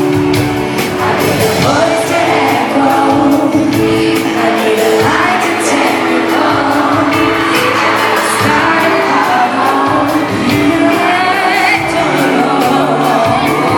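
Live pop ballad heard from the audience in a large hall: a woman singing a slow melody over held keyboard chords, with crowd whoops and shouts mixed in.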